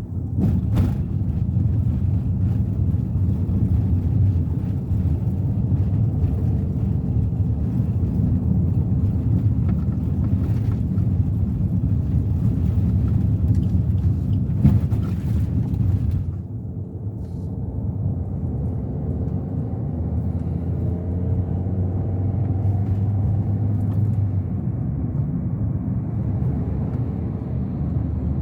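Steady low rumble of road and engine noise from a Suzuki Ertiga 1.4 driving on a toll road, with a few brief knocks. About two-thirds of the way in, it becomes a little quieter and the hiss drops away.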